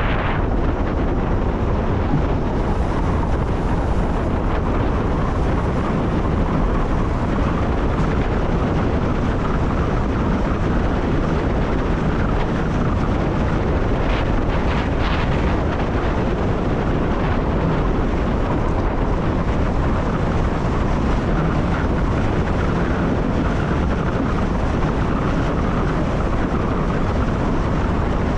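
Electric passenger train running at speed, heard from the driver's cab: a steady, loud rumble and rush of wheels on rail and air. A few brief sharper sounds come about halfway through.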